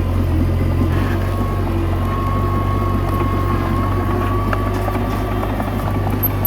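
Komatsu D21A bulldozer's diesel engine running steadily. A thin, high whine sits over it from about a second in until about five seconds.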